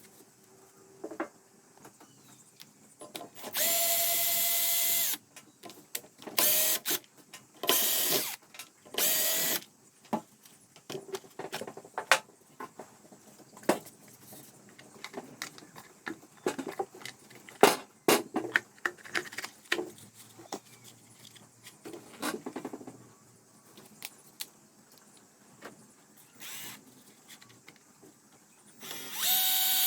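Handheld power drill running in several short bursts of a second or two, each a steady whine. Between the bursts there are clicks and clatter of tools and parts being handled.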